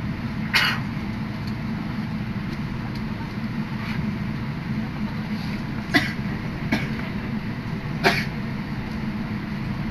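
Steady low rumble inside an electric commuter train as it pulls out of a station and gathers speed. Four short sharp sounds rise above it: one about half a second in and three between six and eight seconds in.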